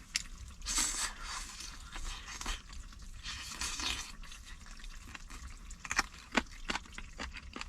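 Cooking and handling sounds: a utensil scraping, with patches of hiss and a run of light clicks late on.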